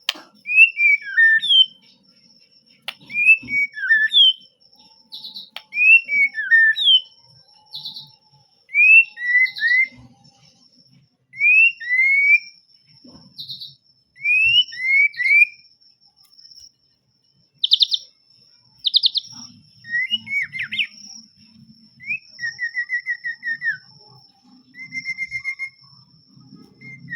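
White-rumped shama singing: short, loud whistled phrases of rising and falling notes, repeated with brief pauses, and a few rapid trills in the second half.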